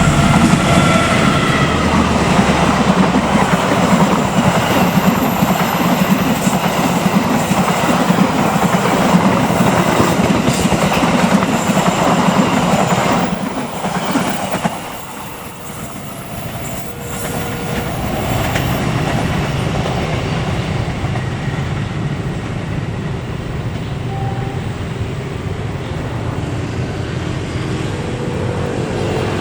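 A train running past close by, its wheels clattering on the rails. About fourteen seconds in the sound falls away, leaving a steadier, quieter noise.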